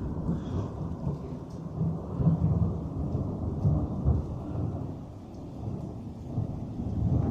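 Thunder rolling and rumbling in a storm, swelling and fading, easing off about five seconds in and building again near the end, with rain.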